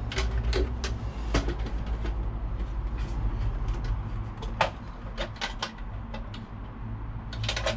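Scattered clicks and knocks from handling and fitting a plastic waterproof outdoor double socket and its cable, over a steady low rumble.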